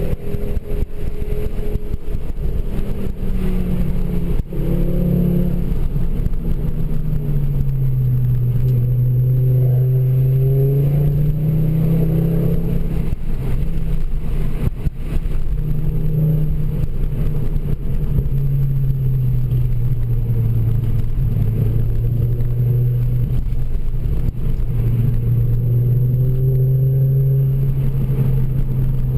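Ford Focus RS MkII's turbocharged five-cylinder engine and Milltek exhaust, heard from inside the cabin while driving a winding road. The engine note rises and falls repeatedly as the car accelerates and eases off between bends.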